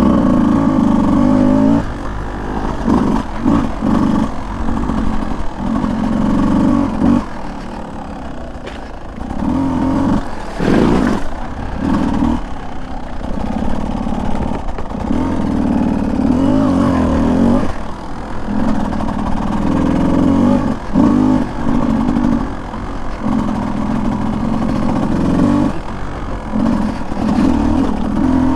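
Beta 200 two-stroke dirt bike engine on the trail, revving in repeated bursts and backing off between them, with the pitch climbing as it opens up near the end.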